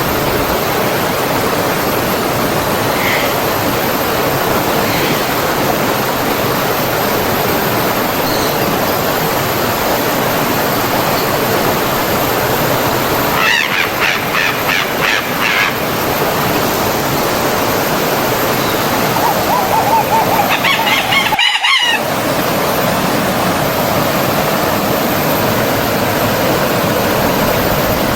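Steady rush of a flowing stream, with bird calls twice, a short series about halfway through and another near 20 seconds. The water sound briefly drops out just before 22 seconds.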